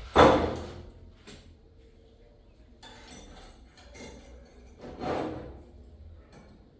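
Metal clinks from handling piston rings and a ring filer: a sharp clink just after the start and a softer knock about five seconds in, with faint scraping between.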